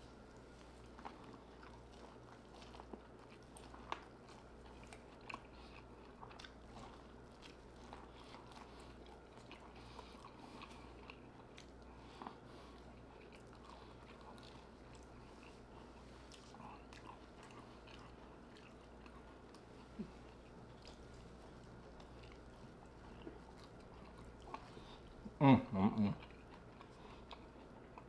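Close-up eating of buttered corn on the cob: soft bites and wet chewing clicks, scattered and quiet. Near the end there is a brief two-pulse voice sound, louder than the chewing.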